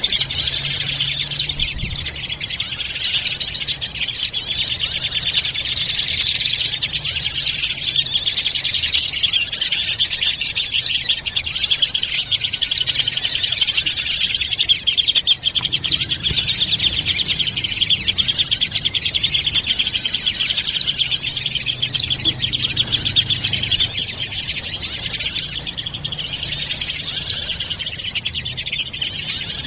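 Bird-lure recording of many small birds chirping and twittering densely and without pause, with quick high sweeping notes and sharp chip calls. It is played to draw wild birds in for catching.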